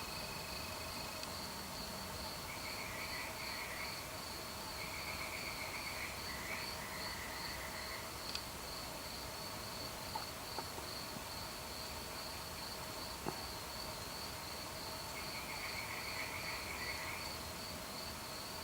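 Warm summer night ambience of crickets: one chirps steadily throughout in a fast, even pulse, while shorter trills of about two seconds each come four times, three in the first half and one near the end. A few faint clicks sound in the middle.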